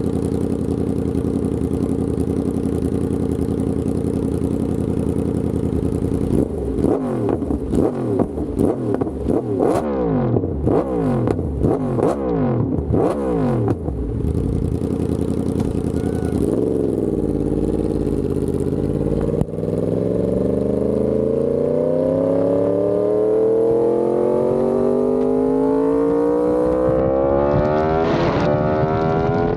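Yamaha R1M's crossplane inline-four through an SC Project exhaust, idling steadily, then blipped about once a second in a string of quick revs. After it settles, it pulls in a long rising acceleration, with a gear change near the end.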